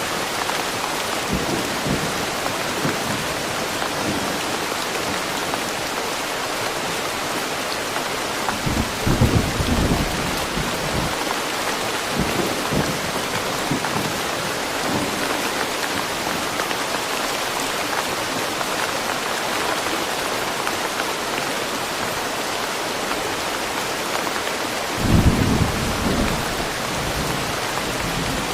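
Steady rain falling in woodland, an even hiss of many drops. Two brief low rumbles swell up, about nine seconds in and again near the end.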